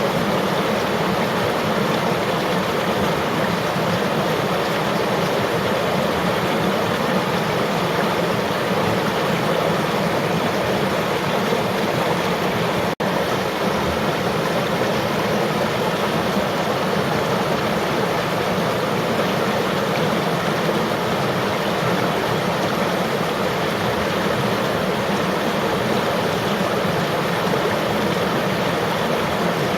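Flowing river water: a steady, even rushing with no let-up. It is broken only by a split-second dropout a little before halfway through.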